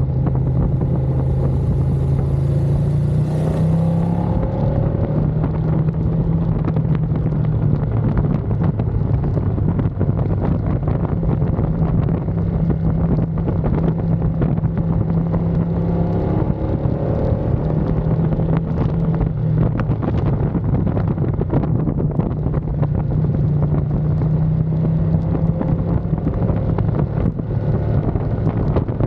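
Ducati Panigale V2's 955 cc V-twin engine heard from on board, running steadily under wind rush across the microphone. It rises in pitch as it accelerates about three seconds in and again about halfway through.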